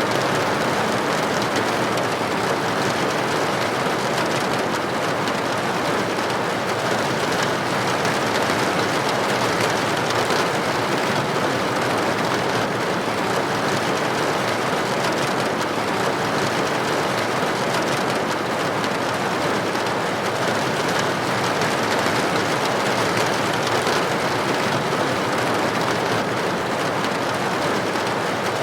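Steady rain falling against a building window, a dense, even patter of droplets with no breaks or changes.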